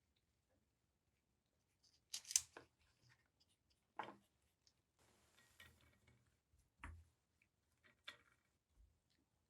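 A few sharp clicks and knocks of tools or parts being handled, the loudest a short clatter about two seconds in, then single knocks spaced a second or two apart, with a brief soft hiss in between.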